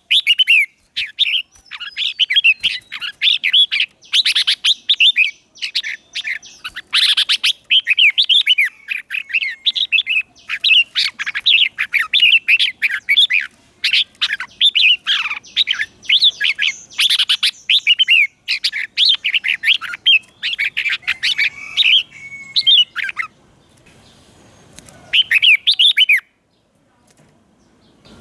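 Red-whiskered bulbul singing: quick runs of bright warbled, chirping phrases, one after another. The song thins out near the end, with one last short burst before it stops.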